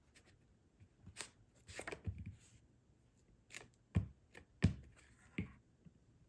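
Paper and card being handled on a work surface: soft rustling and a scattered series of light taps and clicks as printed images are positioned and pressed onto a postcard.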